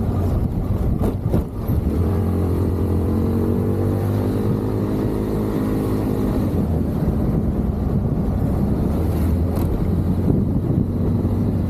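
Motorcycle engine running steadily while riding along a road, its note holding fairly even, with a few brief clicks.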